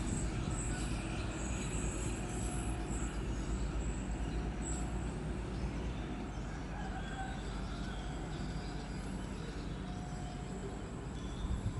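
A train running on the tracks, a steady low rumble that slowly fades as it moves off. No horn sounds.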